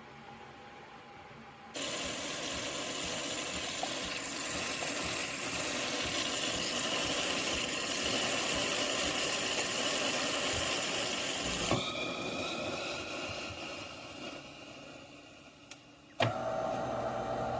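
De'Longhi Eletta fully automatic espresso machine running through a drink cycle. A loud, steady machine noise starts about two seconds in, lasts about ten seconds and fades out. Near the end a different, lower hum with a steady tone starts.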